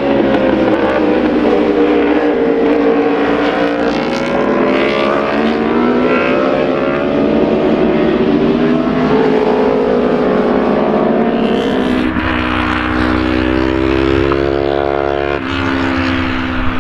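Racing motorcycle engines running hard on the track, their pitch rising and falling as the bikes accelerate and ease off. Near the end one engine climbs steadily in pitch for about three seconds, then drops sharply at an upshift.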